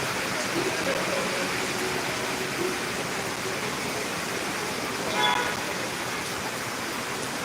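Steady hiss of falling rain. A short tooting tone, like a vehicle horn, sounds once about five seconds in.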